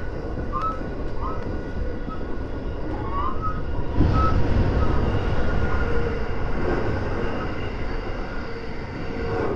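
Running noise of a JR West 223 series electric train, heard from behind the driver's cab of its leading car. About four seconds in, the train enters a tunnel and the noise turns suddenly louder and deeper.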